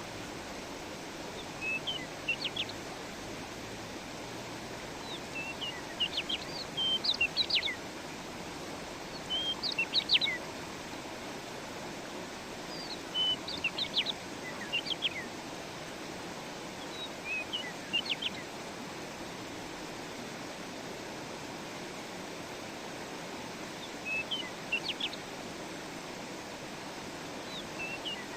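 A songbird singing short phrases of quick, high chirping notes, one every few seconds, over the steady rush of flowing stream water.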